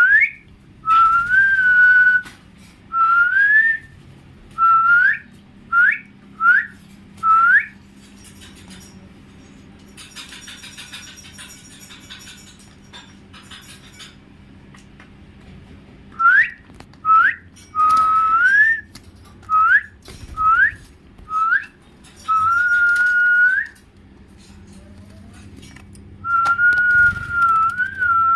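Clear, loud whistling: quick rising upslurs and a few longer held notes in two runs, with a pause of several seconds between them.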